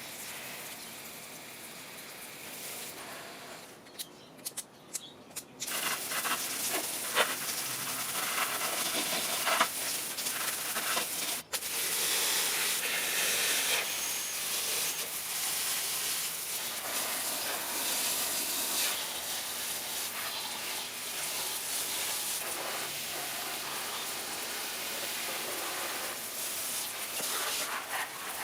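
Water from a garden hose spraying onto plants: a steady hiss that starts about six seconds in and rises and falls a little as the spray moves.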